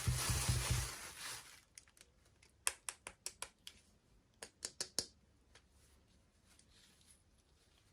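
A loud rushing noise with a low, even pulse fades out in the first second and a half. Then come two quick runs of about half a dozen crisp clicks each, like plastic packaging being snipped or handled.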